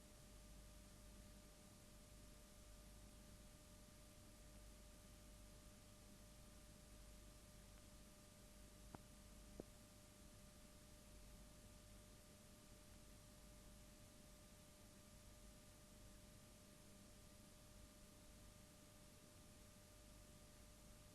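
Near silence: a faint steady hum and hiss, with two small clicks about half a second apart a little before the middle.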